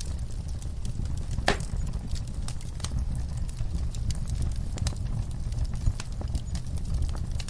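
Wood fire burning in a fireplace: a steady low rumble with irregular crackles and pops from the logs, one sharper pop about one and a half seconds in.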